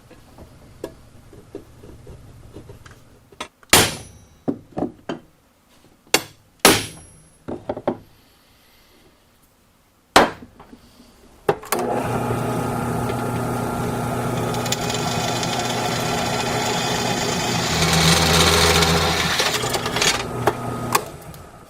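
A handful of sharp metal knocks and clanks, then a power tool's motor running steadily for about nine seconds as holes are made in a steel plate. It gets louder for a couple of seconds near the end, then stops.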